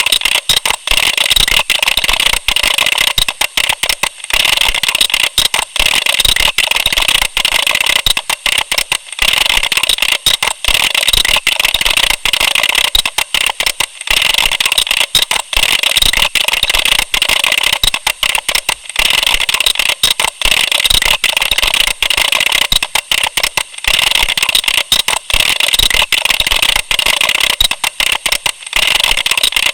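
Computer keyboard being typed on fast: a dense, continuous clatter of key clicks, broken by brief pauses every few seconds.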